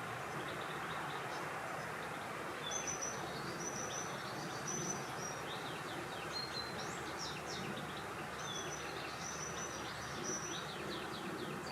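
Songbirds singing over a steady rush of wind: short high whistled notes and quick downward-sweeping chirps, repeated in loose phrases.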